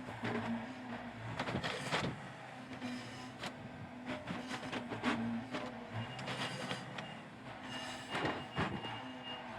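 Yanmar YB451 mini excavator's diesel engine running steadily under load while it digs, with repeated clanks, knocks and scraping of the bucket working dirt and rock. A thin high whine comes in near the end.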